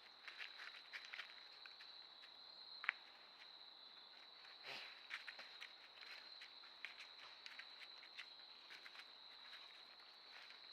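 Faint steady, high-pitched insect trill, with scattered light ticks and rustles.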